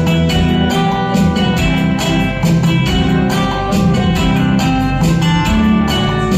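Karaoke backing track playing an instrumental interlude with a steady beat.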